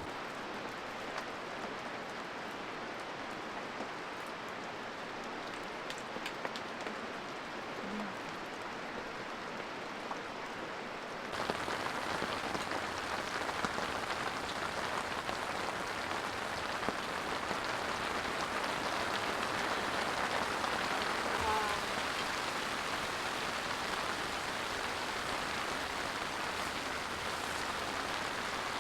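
Steady rain falling, with scattered drop ticks; about a third of the way in it abruptly becomes louder and fuller.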